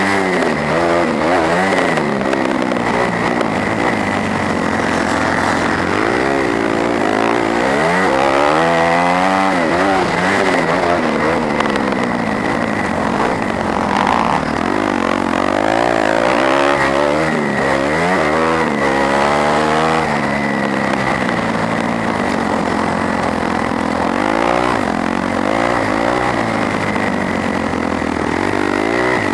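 250cc four-stroke motocross bike engine heard from onboard, revving up and falling off over and over as the rider works the throttle and gears around the track.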